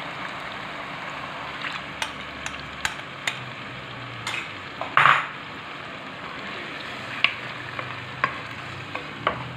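Chicken frying with spices and tomato paste in a nonstick pot, a steady sizzle, while a spoon stirs and knocks against the pot in scattered clicks. One short, louder burst of noise comes about five seconds in.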